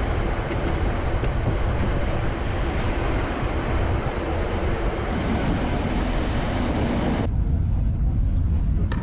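Narrow-gauge train rolling along: steady wheel-on-rail rumble with rushing air at an open carriage window. About seven seconds in, the hiss cuts off, leaving the duller rumble heard inside the carriage.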